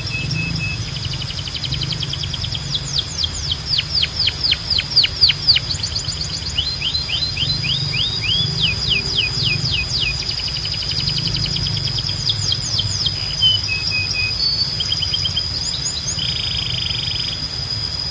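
Canary singing a long song of rolls: trains of quick downward-sweeping notes repeated several times a second, loudest about four to five seconds in, with a short buzzy phrase near the end. A steady thin high tone and a low hum lie underneath.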